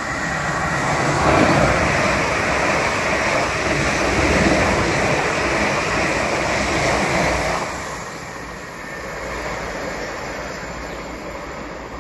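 South Western Railway passenger train running through the station. Wheel-on-rail and running noise swells about a second in, stays loud for about six seconds as the carriages pass, and falls away sharply near eight seconds once the train has gone by.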